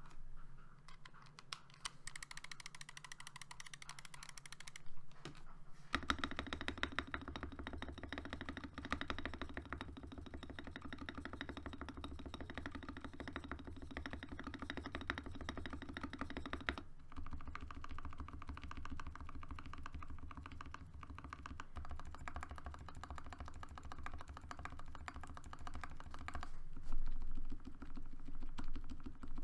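Continuous typing on a Dukharo VN66 mechanical keyboard with hand-lubed, filmed SP Star Meteor switches, lubed stabilizers and PBT Cherry-profile keycaps. The keystrokes are lighter for the first few seconds, then come faster and fuller about six seconds in.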